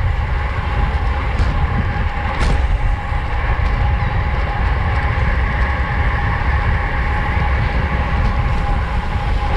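Wind roaring over a bicycle-mounted camera's microphone at racing speed, with tyre and drivetrain noise underneath: a steady, loud rush heavy in the low end, with a faint constant tone running through it.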